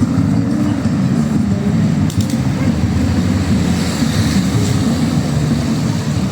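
Low, steady rumble of city street traffic, with a vehicle engine running close by.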